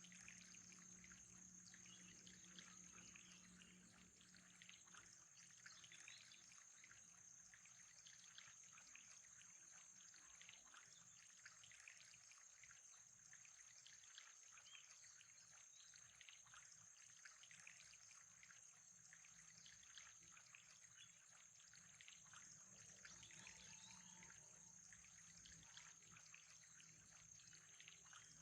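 Faint, steady trickling water, with a thin high whine and a low hum under it.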